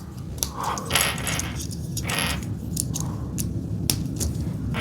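Plastic Lego pieces clicking and rattling as they are handled and pressed together, with a steady low hum underneath.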